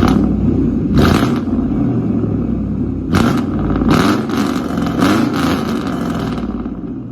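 Straight-piped pickup truck engine running and revving, its pitch rising and falling, with several sharp cracks.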